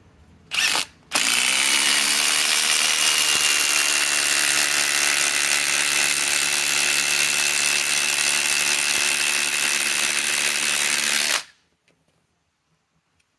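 Milwaukee M18 Fuel Gen 4 impact driver driving an 8-inch lag screw. It gives a brief blip of the trigger first, then runs under load continuously for about ten seconds, its pitch rising at the start and then holding steady, before stopping abruptly.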